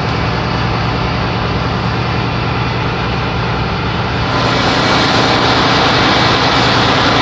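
Ship's engine machinery running with a steady low hum under a loud wash of noise; a higher hiss grows louder about four seconds in.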